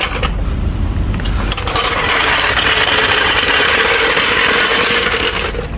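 A power-driven car jack running as it lowers the vehicle: a steady mechanical whir with a constant tone that stops shortly before the end.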